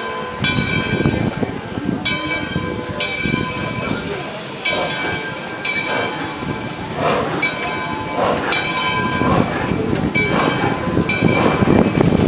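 Passenger coaches rolling around a curve, the wheels rumbling on the rails. Over the rumble, a high ringing tone sounds in short strokes about once a second.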